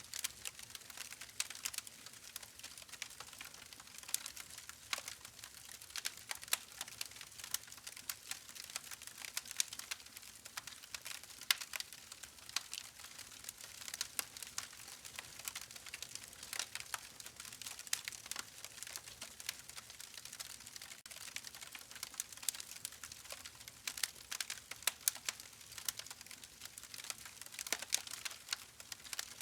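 Campfire burning: a soft steady hiss of flames with frequent irregular crackles and pops from the burning wood.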